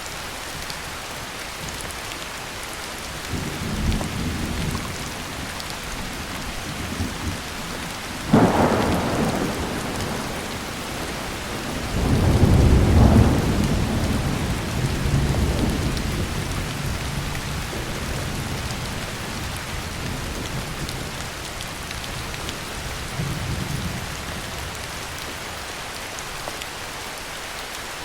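Heavy rain falling steadily while thunder rolls through: a low rumble, then a sudden sharp clap about eight seconds in, followed by the loudest, long low rumble from about twelve seconds in that slowly dies away, and a softer rumble near the end.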